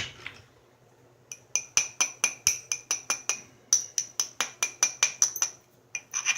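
Flintknapping: an antler tool tapping along the edge of a stone preform, making a fast run of short, sharp clicks with a glassy ring, about four a second. The clicks pause briefly near the end, then start again.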